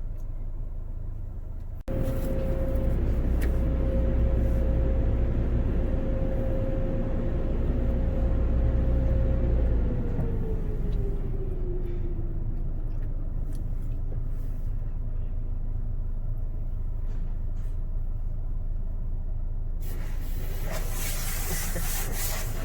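Car-wash tunnel machinery running with a low rumble and a steady motor hum. About ten seconds in, the hum winds down in pitch as the motor slows. Near the end a hiss, like water spraying, starts up.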